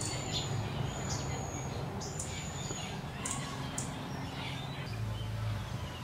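Calls of small birds: thin, very high whistled notes, each held about half a second, three times in the first three seconds, then two sharp chips, over a steady low hum.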